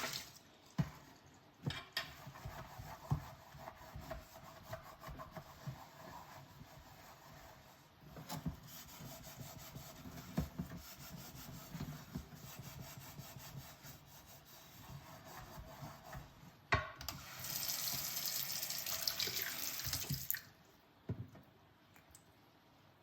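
Dishes being hand-washed at a kitchen sink: scattered clinks and knocks of dishware against water. Near the end the tap runs in a steady rush for about three seconds, then is turned off suddenly.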